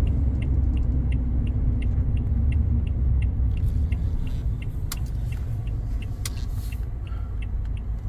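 Car driving, heard from inside the cabin: a steady low road and engine rumble with a turn-signal indicator ticking about twice a second. A couple of sharp knocks come around the middle.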